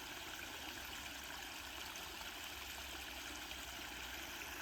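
Small waterfall and running stream water, a faint, steady rush.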